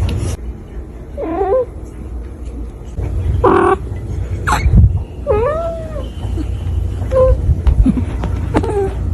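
A cat meowing repeatedly: five or six short calls, with one longer drawn-out meow in the middle, over a steady low rumble.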